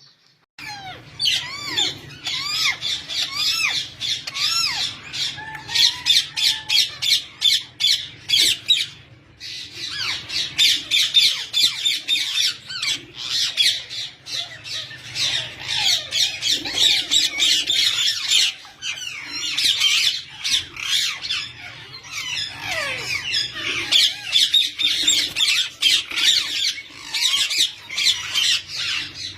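A flock of caged parakeets chattering and squawking, many birds calling over one another without a break except a short lull about nine seconds in. A faint steady low hum runs underneath.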